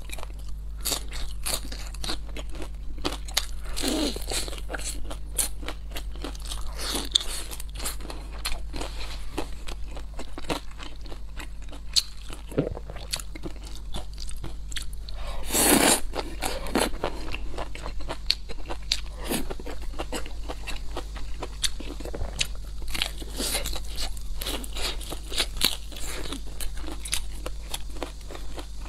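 Close-miked eating: crisp fried vegetable fritters being bitten and chewed, with a dense run of crunches and wet chewing. There is one louder crunchy burst a little past halfway, and a steady low hum underneath.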